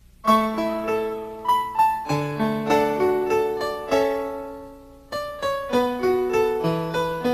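Piano playing a slow song intro: chords and single notes struck and left to fade. The playing begins just after the start, dies away about five seconds in, and then picks up again.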